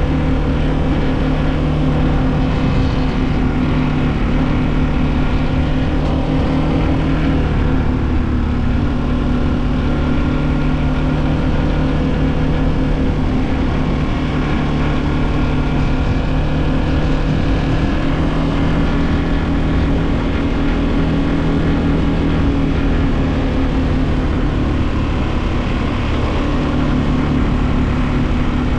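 KTM 1290 adventure motorcycle's V-twin engine running steadily at road speed under a rush of wind. The engine note shifts down about seven to eight seconds in, then holds steady again.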